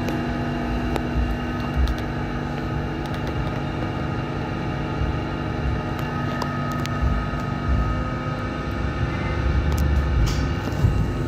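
Steady electrical hum of Hong Kong Light Rail Phase I cars, with several fixed tones from the onboard equipment over a low rumble, a few light clicks, and the rumble swelling near the end.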